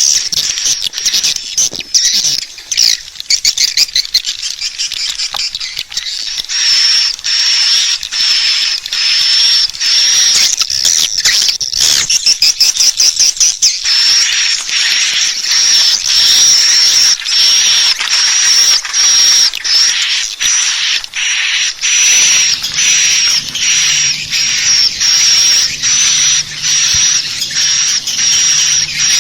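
Swiftlet lure call: swiftlets' high, rapid twittering chirps repeated in a steady chain of short bursts, the sound played to draw swiftlets in to roost and nest. A faint low hum joins about two-thirds of the way through.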